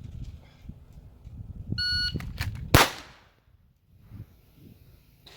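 A shot timer's short electronic beep, then about a second later a single loud shot from a 9mm Glock 45 pistol, the first shot of the drill on the timer's start signal.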